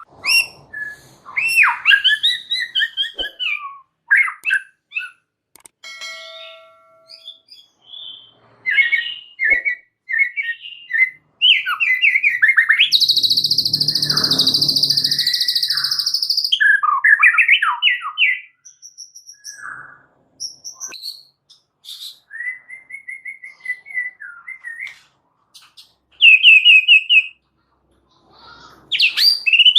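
White-rumped shama (murai batu) singing a loud, varied song of whistled phrases, quick trills and chatters with short pauses between them, including a harsh buzzing phrase about three seconds long midway.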